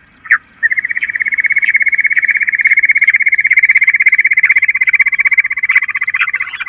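Bush quail call: one short chirp, then from about half a second in a loud, steady, very fast trill held at one high pitch.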